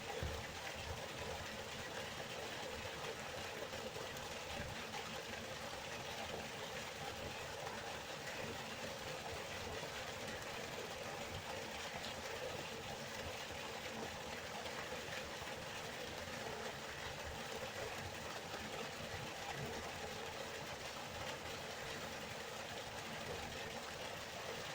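River water flowing, a steady even rush of noise with no breaks.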